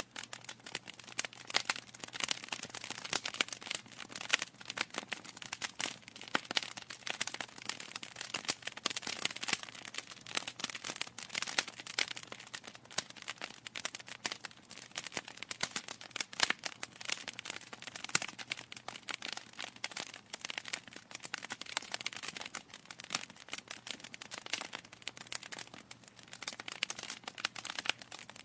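Wood fire crackling in a fireplace: a continuous hiss with dense, irregular pops and snaps from the burning logs.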